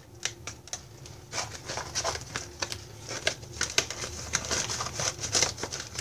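Mylar food-storage bag crinkling and rustling in the hands, with irregular crackles, as an oxygen absorber packet is slipped in through the partly open zipper.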